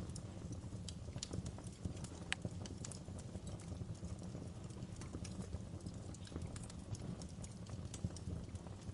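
Wood fire crackling, with irregular sharp pops and ticks over a low steady rumble. One pop is louder than the rest, a little over two seconds in.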